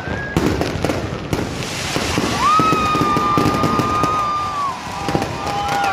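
Fireworks going off: a rapid run of firecracker pops and bangs, with a long high whistle that holds steady for a couple of seconds and then falls away.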